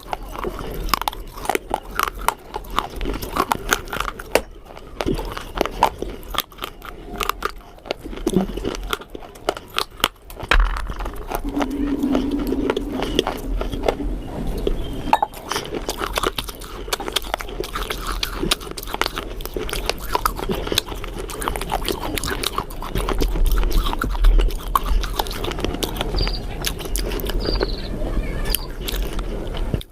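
Close-up chewing and biting of something crunchy: dense, irregular crisp crunches from the mouth throughout.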